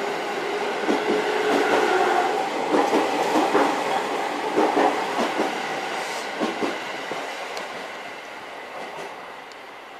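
Train running on the rails: wheels clicking over rail joints with a steady whine, the sound fading away over the last few seconds.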